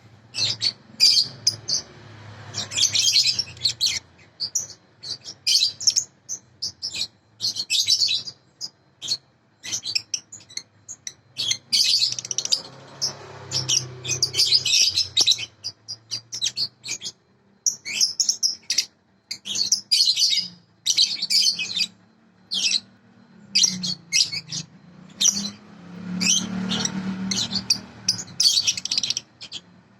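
Budgerigars chattering, with quick bursts of high chirps and warbling.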